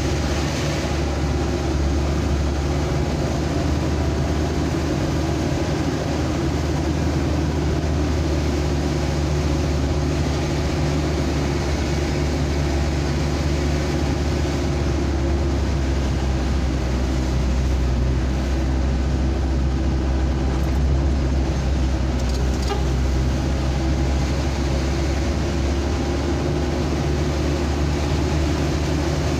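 Steady engine drone and road noise from a vehicle under way at an even speed.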